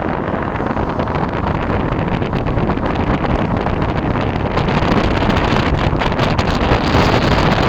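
Wind buffeting the microphone: a loud, steady rush, with crackling gusts growing in the second half.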